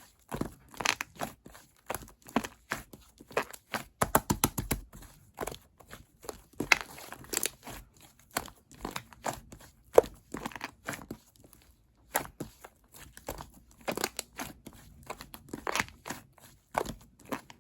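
Hands kneading and pressing slime mixed with clay, giving a dense run of irregular sticky clicks and crackles.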